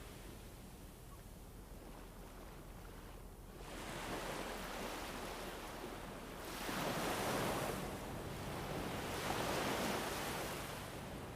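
Ambient soundscape of a rushing noise that swells and fades in slow surges every few seconds, like gusting wind or breaking surf, with no crackle or voice in it.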